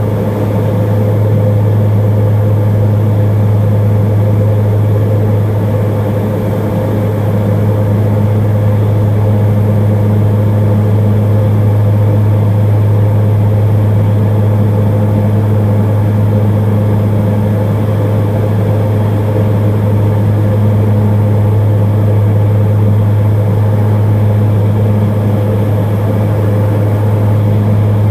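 Tour plane's propeller engines running at steady power: a loud, constant low drone that holds one pitch throughout.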